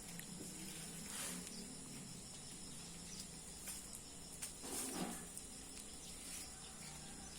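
Faint outdoor ambience of insects chirring in a steady high drone, with two brief noisy sounds, one about a second in and one around five seconds.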